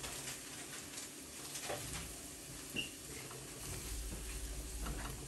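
Sliced onions and ground spices sizzling quietly in a nonstick wok while a silicone spatula stirs them, with a few soft taps and scrapes of the spatula on the pan.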